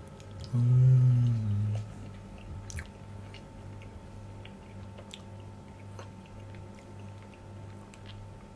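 A man chewing a mouthful of papaya with his mouth closed, with faint wet clicks. About half a second in, he hums a loud 'mmm' lasting just over a second.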